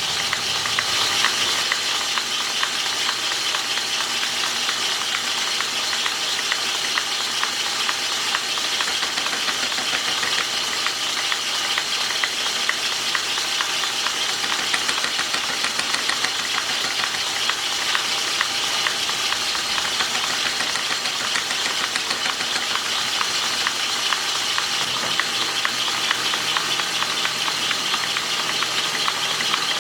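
A metalworking machine running steadily while cutting metal, with a dense crackle over a steady hiss, as a welded part is recut to size.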